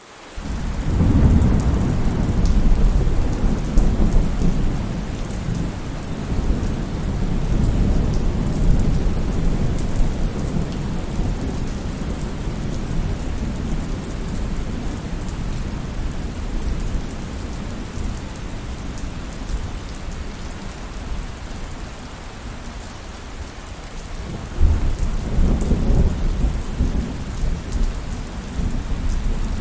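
Heavy rain falling steadily, with rolling thunder: a long low rumble begins about a second in and fades away over roughly ten seconds, and a second rumble comes near the end.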